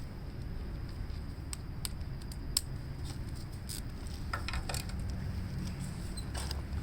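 Scattered small metallic clicks and clinks of hand tools being handled on the tractor, with one sharper click about two and a half seconds in, over a steady low hum.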